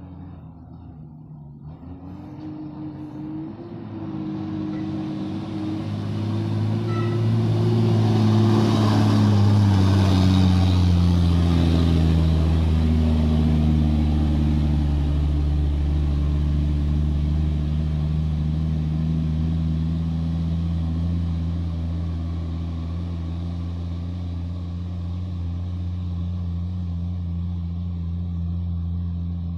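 Heavily loaded dump truck's diesel engine labouring through a bend. The engine grows louder to a peak about ten seconds in, then its pitch slowly falls and it runs steadily.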